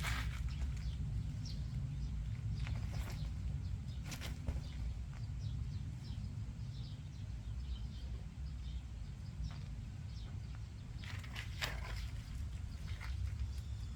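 Kittens scrambling on an umbrella's fabric canopy: scattered rustles and sharp crackling scratches, with a cluster of them near the end, over a steady low outdoor rumble.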